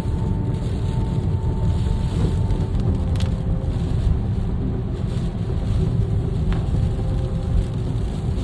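Steady low road rumble and tyre noise heard inside a moving car's cabin on a wet road, with a couple of faint ticks.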